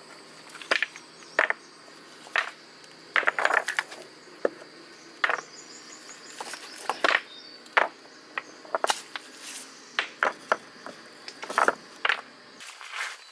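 Irregular sharp clicks and knocks, some in quick clusters, as of hard objects being handled, over a steady high-pitched insect drone.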